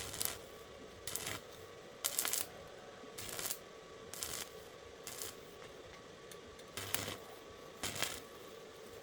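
A series of short rubbing or scraping strokes, about one a second, over a faint steady hum.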